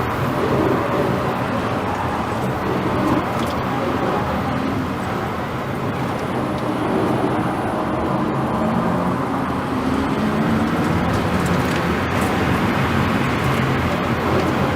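A car driving at speed, with steady road noise.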